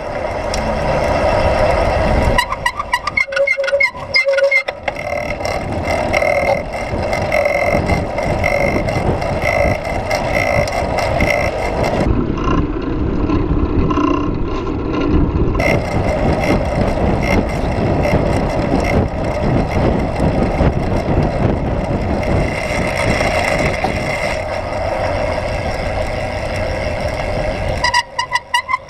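City road traffic and vehicle noise heard while riding through streets. About twelve seconds in, the sound turns duller for a few seconds, then comes back.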